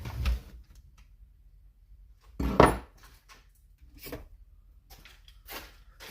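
Handling noises from work on a chainsaw's bar and tensioner: one louder clunk about two and a half seconds in, then a few light clicks.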